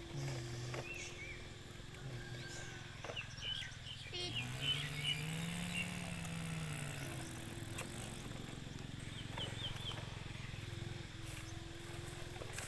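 A motor running with a steady hum, its pitch rising and then falling back over a few seconds in the middle, with short high chirps scattered over it.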